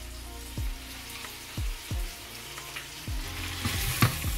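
Chopped onion, chicken, peppers and chorizo frying and sizzling in a black enamelled pan, stirred with metal tongs. There are a few dull thumps through the sizzle and a sharp clack of the tongs near the end.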